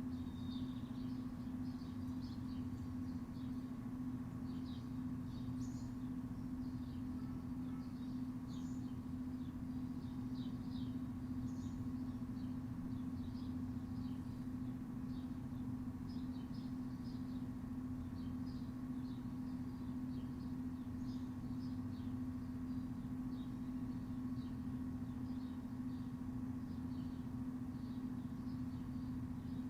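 Steady low mechanical hum with a fixed low tone, under frequent short, high chirps from small birds scattered irregularly throughout.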